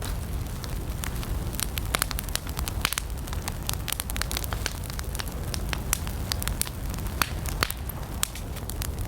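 Wood campfire burning, with dense sharp crackles and pops over a steady low rumble of the flames.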